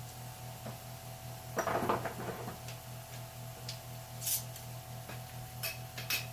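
Small kitchen handling sounds: a short rustle about one and a half seconds in, then a few light clicks and taps of utensils, over a steady low hum.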